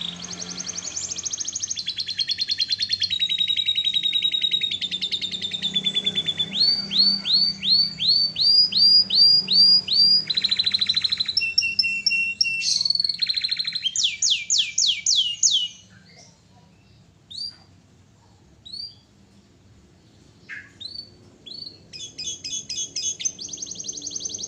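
Domestic canary singing: fast rolling trills and runs of repeated rising notes, breaking off about two-thirds of the way through into a few single chirps before the song starts again near the end.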